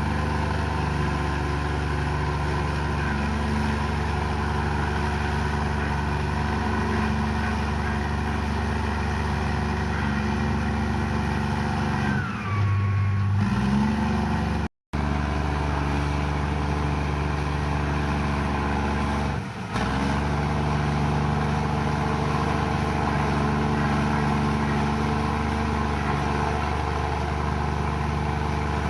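Komatsu bulldozer's diesel engine running steadily as it pushes mud, its note shifting for a moment about twelve seconds in with a short falling whine. The sound drops out for an instant about halfway and dips briefly again a few seconds later.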